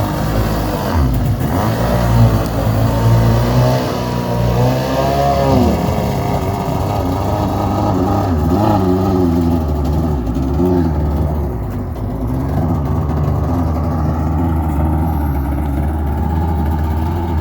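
Small jet boat's engine running and being revved, its pitch swinging up and down several times, then settling to a steadier, slightly quieter drone in the second half.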